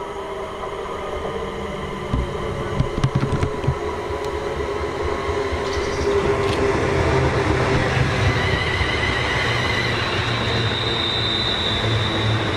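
A train running through on the main line, growing louder about six seconds in, with a few knocks early on and a high steady whine over the rumble.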